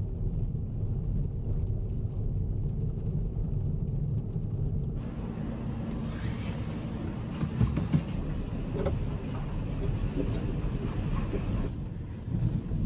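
Steady low rumble of a car driving, heard from inside the cabin. About five seconds in, a higher hiss of road and tyre noise joins it.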